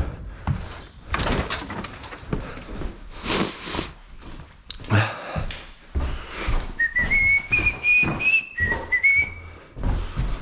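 A person whistling a short phrase of a few notes for about two and a half seconds in the second half, over repeated knocks and clatter from debris being handled.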